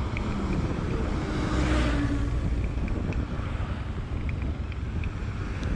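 Car on the move: steady engine and road rumble with wind noise on the microphone, swelling louder for a moment about two seconds in.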